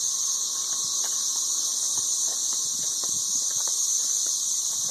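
Chorus of 13-year periodical cicadas: a steady, unbroken high-pitched drone.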